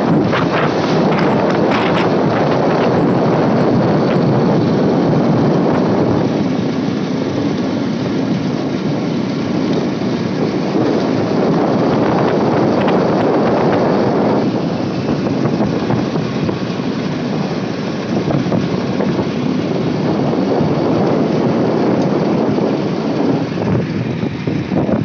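Loud, steady wind noise on the microphone of a moving motorcycle, with road and engine noise mixed in.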